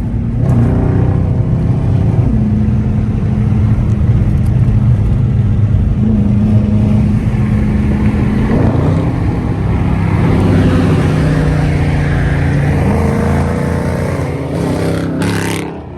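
Car engine running loud with a steady low exhaust drone, its note shifting lower about halfway through, then dropping off sharply near the end.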